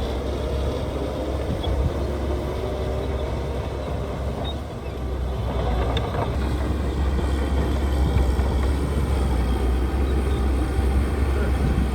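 Heavy diesel construction machinery running under load. The engine drone eases briefly about five seconds in, then runs harder again.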